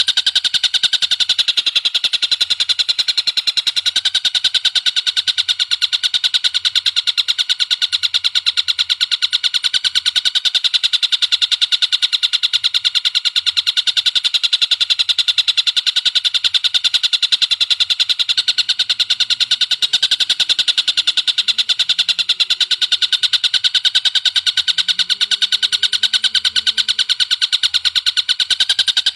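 Recorded bird call: one bird's rapid, unbroken chatter of sharp, high notes repeated many times a second, played as a masteran tutoring recording.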